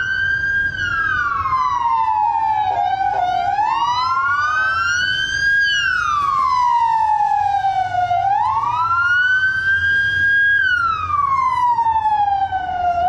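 Two emergency vehicle sirens in slow wail mode, each rising and falling between a low and a high pitch about every five seconds and out of step with each other, over the low rumble of vehicle engines.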